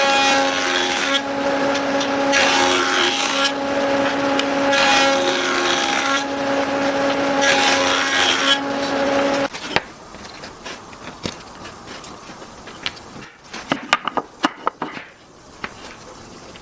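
An electric woodworking power tool runs with a steady hum while it works wood in four surges of cutting noise, then switches off about nine and a half seconds in. Light wooden clicks and knocks follow as pieces are handled.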